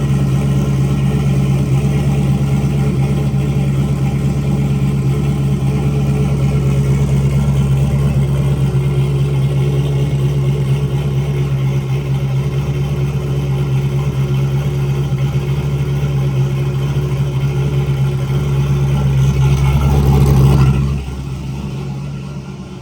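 Turbocharged LS V8 in a third-generation Camaro idling steadily, with a short rev near the end before the sound drops away.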